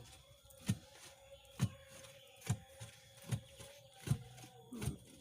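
Six dull thuds at a steady beat, about one every 0.8 seconds, from manual drilling of a 1.5-inch well, the drill pipe being worked up and down by hand.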